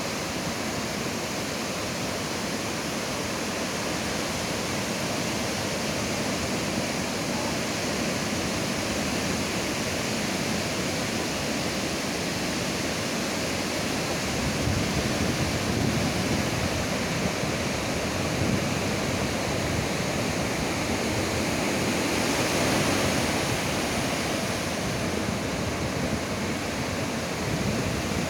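Ocean surf: a steady wash of breaking waves that swells and eases slowly, growing louder about halfway through and again near the end, with some wind on the microphone.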